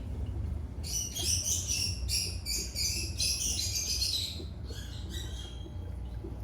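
Small birds chirping in a quick, busy string of high calls from about a second in, thinning to a few fainter chirps near the end, over a low steady hum.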